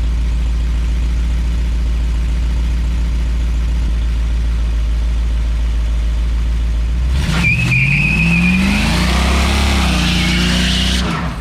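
Fuel-injected 345 hp V8 pickup engine idling steadily, then revved hard about seven seconds in for a burnout, the rear tyres squealing for about four seconds before the throttle is let off near the end.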